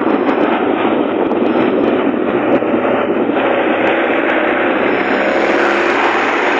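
A car driving along a road: steady, loud rushing road and engine noise, with a few faint ticks in the first half.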